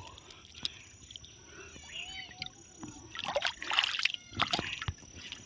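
Shallow water splashing and sloshing in a few short bursts, the louder ones over the second half, with scattered small clicks and a faint voice in the background.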